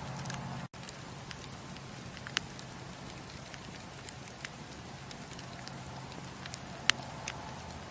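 Campfire burning with a steady low rush and scattered sharp crackles and pops, the loudest one near the end. The sound cuts out for an instant just under a second in.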